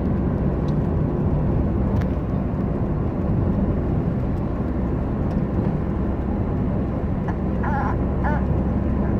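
Steady road and engine noise heard from inside a moving vehicle's cabin, with no clear changes.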